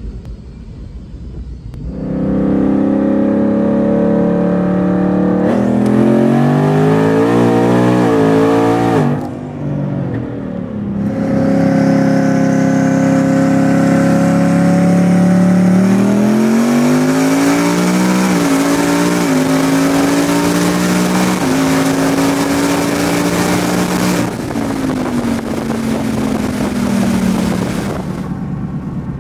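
Car engine at full throttle, heard from inside the cabin, accelerating hard through the gears: the pitch climbs, breaks off about nine seconds in, then climbs again in a long pull with a couple of brief dips at upshifts. It falls in the last few seconds as the throttle comes off.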